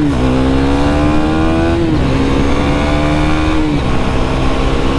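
KTM Duke 390's single-cylinder engine pulling as the bike accelerates, its pitch climbing slowly in each gear and dropping at upshifts right at the start, about two seconds in and again near four seconds, over steady road and wind noise.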